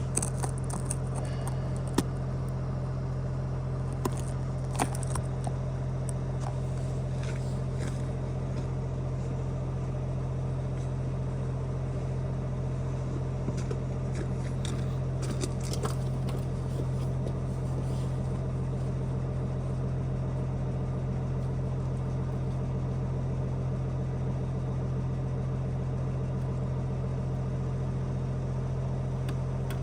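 A steady low mechanical hum, like a running engine, with scattered sharp crackles and clicks, most of them in the first few seconds and again about halfway through.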